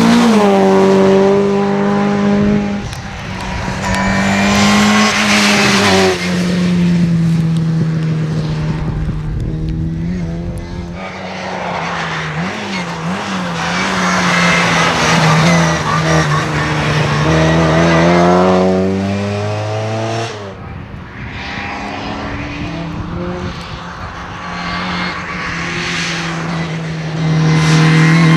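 Rally cars at full throttle on a stage: engines revving up and dropping through gear changes as they approach and pass, loudest several times, with tyre and gravel noise underneath.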